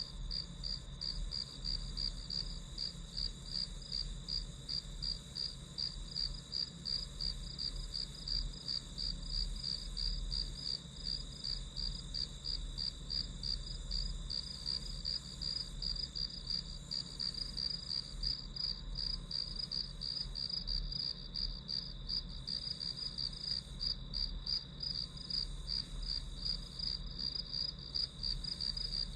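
Crickets chirping steadily in an even, high-pitched rhythm of about two to three chirps a second, over a faint low hum.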